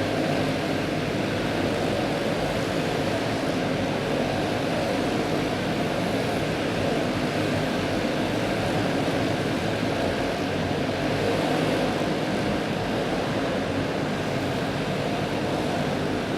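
A field of Pro Clone dirt-track racing karts under green, their small single-cylinder four-stroke clone engines blending into one steady, continuous drone.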